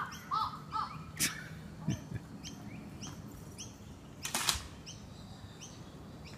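Birds calling: a few short arched calls in the first second, then a short high chirp repeated about every half second. Two brief clatters cut through, the louder about four seconds in.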